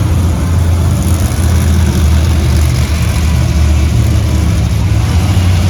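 Monster truck engine running loud and steady, a deep low rumble with a wash of arena noise over it.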